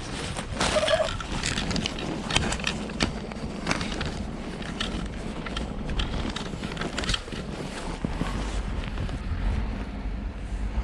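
Footsteps crunching through deep snow in an irregular series of crisp steps, with wind rumbling on the microphone underneath.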